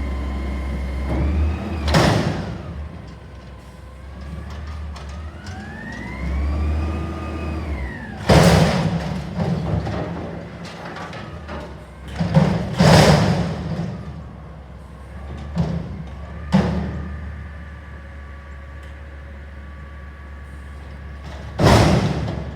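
CNG Peterbilt 320 front-loader garbage truck with a McNeilus Atlantic body servicing a dumpster: the engine runs steadily, revving up and down as the hydraulic arms work. Five or so loud metal bangs, some in quick clusters, as the dumpster is slammed hard against the hopper to shake it out.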